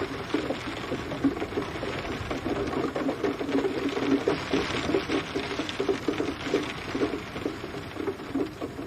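Steady rain, a dense, irregular patter of drops tapping on a surface with no letup.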